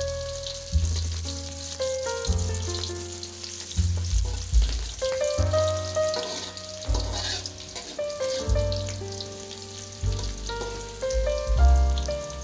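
Garlic and shallots sizzling in hot oil in a wok, stirred now and then with a metal spatula. Background music with a bass line and melody plays throughout.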